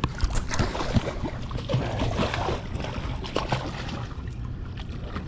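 Water splashing and dripping, with irregular knocks and rustling in a boat as a freshly caught blue catfish is handled.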